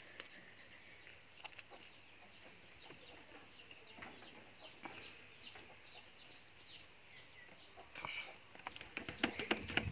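A bird calling in a long series of short, falling high notes, about two or three a second for some six seconds, with a cluster of faint clicks near the end.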